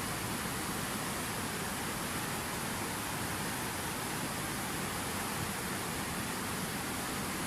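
Steady rushing of water: an even, unbroken hiss with no separate splashes or drops standing out.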